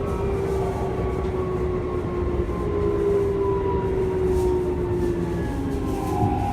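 Keikyu electric train heard from inside the front car: a steady rumble of wheels on rails with the traction motors' whine, several tones slowly falling in pitch as the train slows down.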